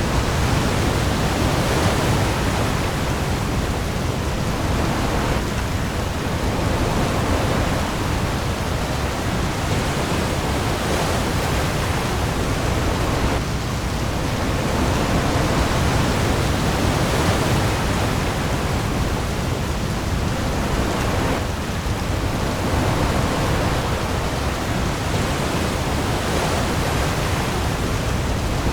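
Heavy rain pouring onto the sea surface with waves, a dense steady hiss over a low rumble, swelling and easing slowly every few seconds.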